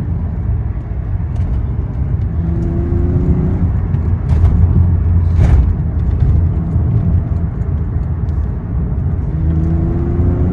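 Acura TL's V6 running through a muffler-delete exhaust while driving under load: a deep, steady drone that swells in loudness a few seconds in, with its pitch rising slightly twice as the car accelerates. A couple of brief knocks are heard midway.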